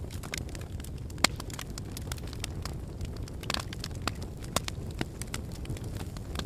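Wood fire burning in a fireplace: irregular sharp crackles and pops over a steady low rumble, the loudest pop just over a second in.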